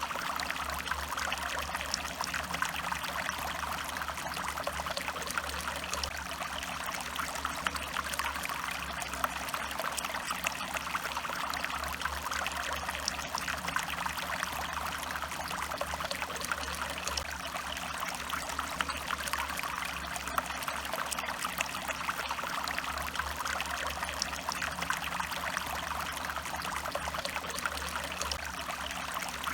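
A stream running steadily, its water trickling and splashing with many small droplet-like ticks.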